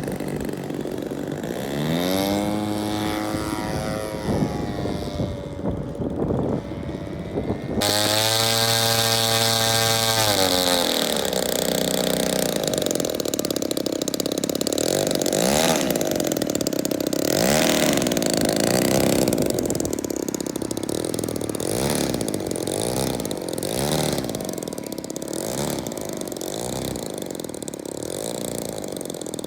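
Engines of large radio-control model airplanes running, their pitch rising and falling as they throttle up and down and pass by. The sound changes abruptly about eight seconds in.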